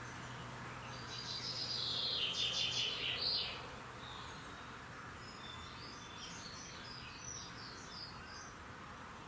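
Songbirds singing outdoors: a nearby bird sings one loud, rapid, high phrase lasting about two and a half seconds, followed by fainter scattered chirps from other birds. A faint low steady hum underneath stops about four seconds in.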